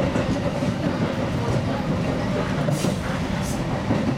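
Seibu 2000 series electric train running, heard from inside the driver's cab: a steady rumble of wheels on rail, with two brief sharper sounds about two-thirds through as the wheels cross points.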